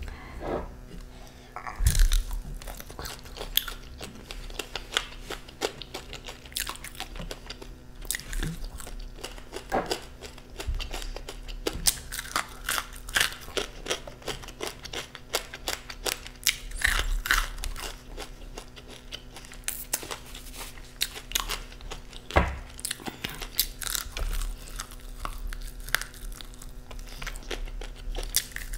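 Close-miked chewing and crunching of crispy fried chicken, with irregular crisp crunches and wet chewing throughout and a few louder bites.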